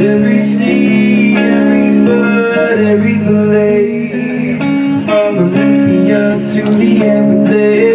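Guitar-led song performed live, with plucked and strummed guitar chords changing steadily.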